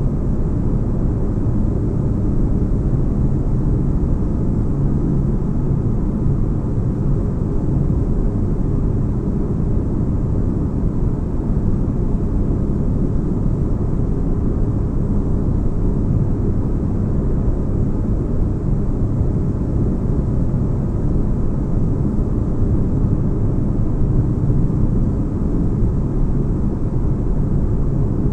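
Sci-fi spaceship interior ambience: a steady deep bass rumble and hum with faint constant tones, unchanging throughout.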